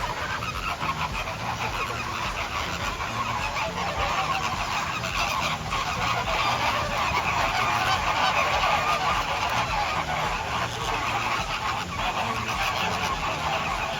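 A large flock of birds calling continuously, many loud honking calls overlapping into a dense chatter.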